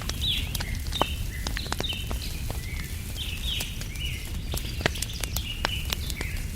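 Wood fire crackling with frequent sharp pops over a steady low rumble, while birds keep up short chirps that sweep downward in pitch, several every second.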